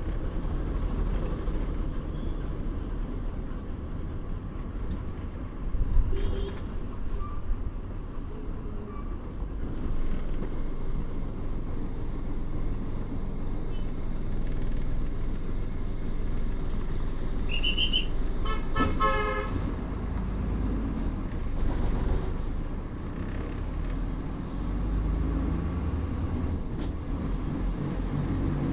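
Steady low engine and road rumble of a moving bus heard from inside, with a sharp knock about six seconds in. About two-thirds of the way through, a vehicle horn honks briefly, twice in quick succession.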